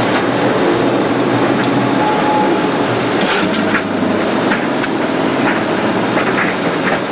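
Boeing 737-200 flight deck at takeoff thrust: the steady, loud rush of its Pratt & Whitney JT8D engines and airflow, with scattered rattles and clicks from the cockpit.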